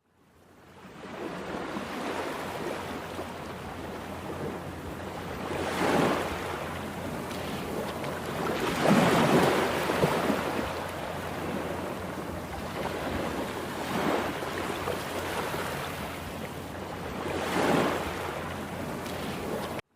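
Rough sea surf breaking on the shore, with a constant rush of water. Three bigger waves crash in: one about six seconds in, a longer one around nine to ten seconds, and one near the end. The sound fades in at the start.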